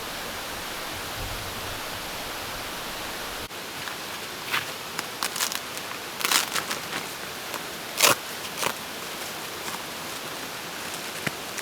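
Steady rush of a mountain stream flowing over rocks. From about four seconds in, a handful of short crunches and clicks sound over it, the loudest near the middle.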